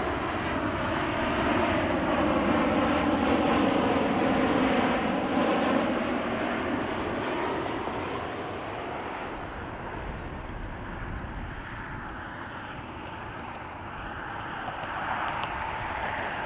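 Boeing 737 MAX 8 jet coming in to land and passing by, loudest a few seconds in with its engine tones sliding down in pitch, then fading.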